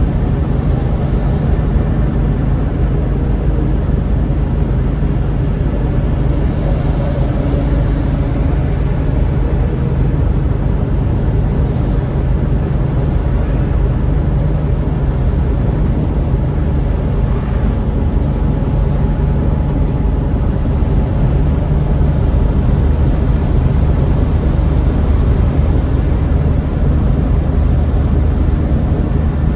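A moving car heard from inside the cabin: a steady low rumble of engine and tyres on the road, even throughout.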